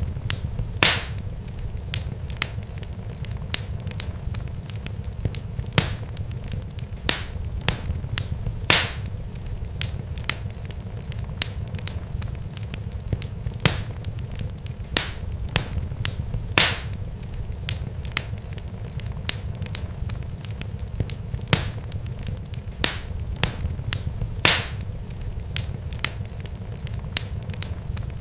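Irregular sharp crackles and pops, a few a second with a louder one every few seconds, over a low steady rumble.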